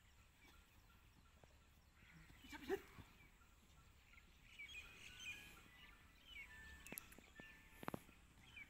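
Quiet rural ambience with small birds chirping faintly: short repeated chirps through the second half. A couple of sharp knocks near the end.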